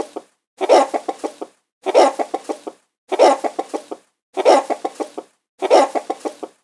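Chicken clucking: a run of quick clucks, loudest at the start and tailing off, repeated five times about every second and a quarter, the same recording looped.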